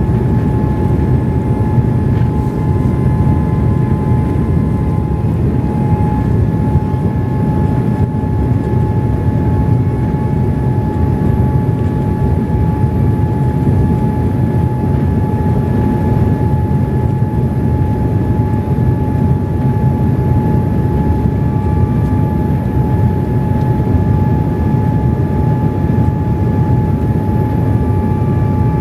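Steady cabin noise of a jet airliner in flight: a constant low rushing rumble with a thin steady whine above it.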